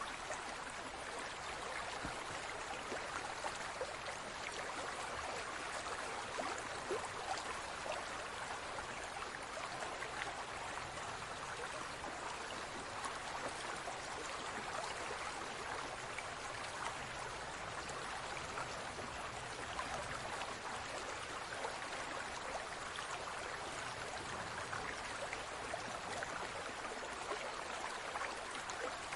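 Aquarium water trickling and bubbling steadily, a constant splashing hiss full of tiny droplet and bubble ticks.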